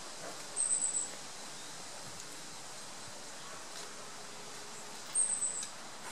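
Long-tailed tits giving thin, very high calls: two short slightly falling notes, one about half a second in and one about five seconds in.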